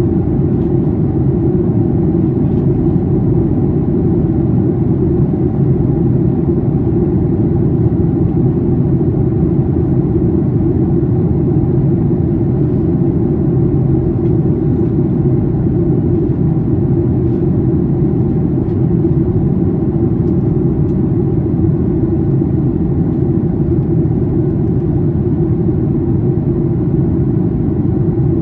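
Steady cabin noise inside a Boeing 737-800 airliner in descent: a low rumble of airflow and its CFM56-7B engines.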